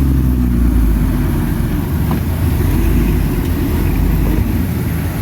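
Bulldozer's diesel engine running steadily, a loud low rumble.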